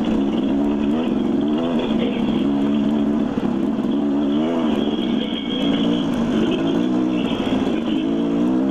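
Dirt bike engine under changing throttle, its pitch rising and falling again and again as the rider works up over rocks on the trail.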